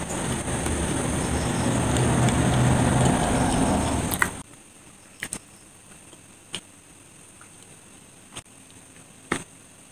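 Close-miked chewing of a soft chocolate sandwich, a dense, loud mouth noise that stops abruptly about four seconds in. A few faint mouth clicks follow.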